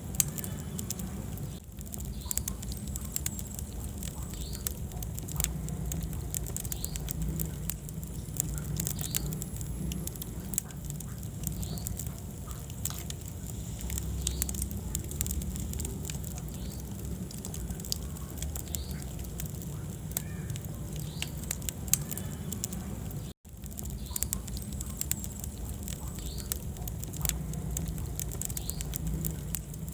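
Wood fire burning in a fireplace: a steady low rumble of flames with many sharp, irregular crackles and pops from the burning logs. The sound cuts out for a split second about two-thirds of the way through.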